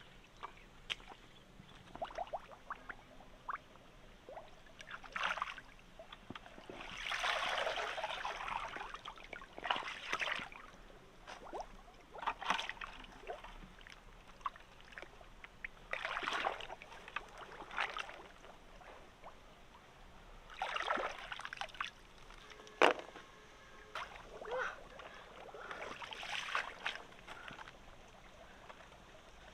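Water sloshing and splashing in irregular bursts a second or two apart, with one sharp knock about three-quarters of the way through.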